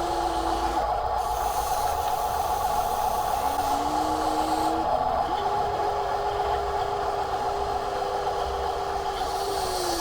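Small electric motors of radio-controlled construction toys whirring over a steady gritty grinding. The motor tone starts and stops: briefly at the start, again about three and a half seconds in, then steadily from about five seconds on.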